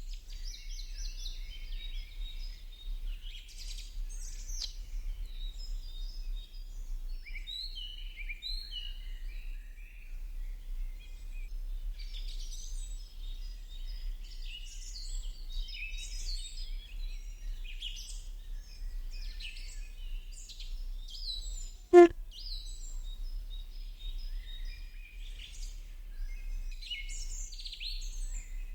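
Many small birds chirping and twittering continuously, over a low steady hum. A single sharp click about three quarters of the way through is the loudest sound.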